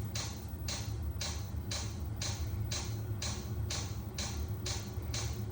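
Chinese diesel heater firing up: its fuel pump ticking steadily about twice a second over the low, steady hum of its blower fan.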